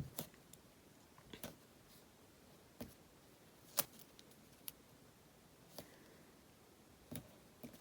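Faint, scattered clicks and light taps, several seconds apart, from hands handling a paper planner and a piece of washi tape being laid onto the page.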